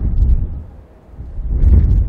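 Strong gusting wind buffeting the microphone, a loud low rumble that dies down about a second in and surges back near the end.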